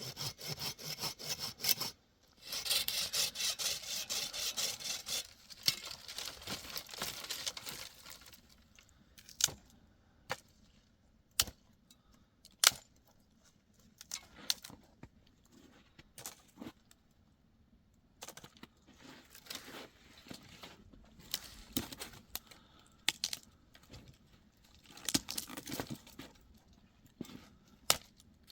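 Rasping, scraping strokes for the first several seconds, then scattered sharp clicks and knocks.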